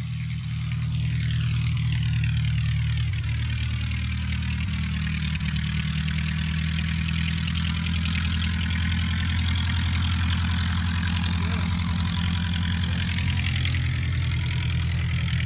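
Piston-engined propeller aircraft flying past overhead, its engine drone steady and loud, growing louder about a second in.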